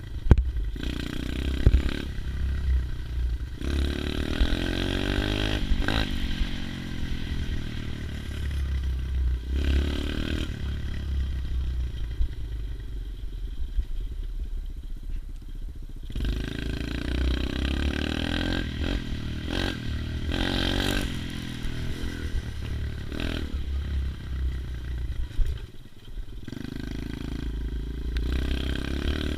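110 cc pit bike's engine running while being ridden, revving up and easing off several times over a heavy low rumble.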